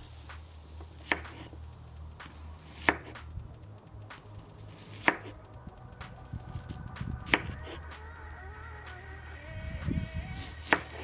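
Knife chopping food on a cutting board: five sharp chops roughly two seconds apart, with lighter knocks between them.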